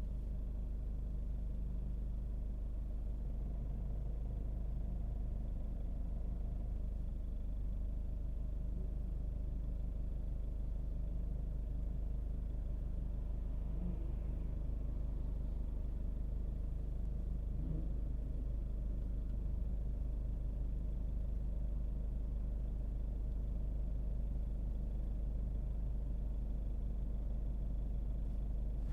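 A car driving at a steady pace: a low, even rumble of engine and road noise.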